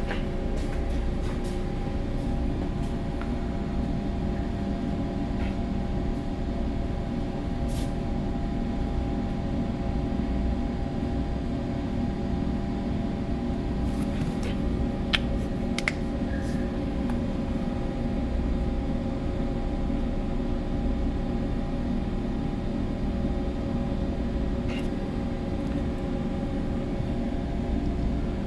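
Steady low hum of a ship's machinery under way, several even tones over a low rumble, with a few faint clicks.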